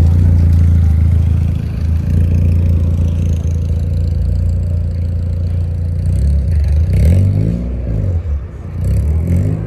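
A car engine idling with a deep, steady exhaust note, then revved up and back down about two-thirds of the way in, and again near the end.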